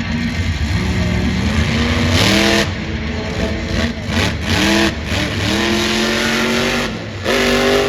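Monster truck's blown, alcohol-fuelled engine revving hard in repeated bursts, its pitch climbing with each stab of the throttle, loudest about two seconds in and again near the end.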